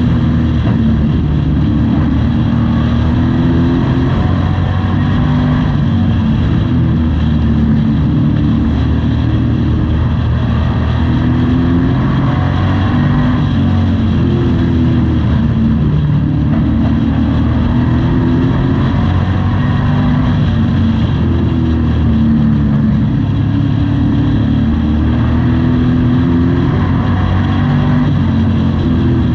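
Race truck engine heard from inside the cab, running hard around a short oval. Its pitch climbs and drops over and over as the driver accelerates down the straights and lifts for the turns.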